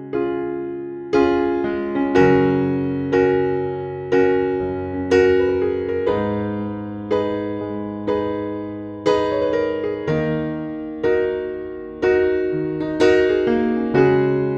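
Background music: slow piano chords, struck about once a second, each ringing out and fading.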